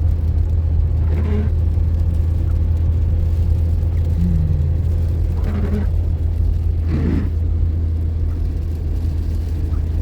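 Steady low rumble of a car driving. A few short, faint voice sounds come through it.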